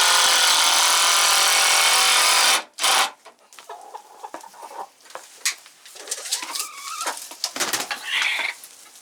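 Power drill running steadily for about two and a half seconds while building a wooden chicken roost, with a short second burst near the three-second mark. After that, chickens cluck and chirp softly.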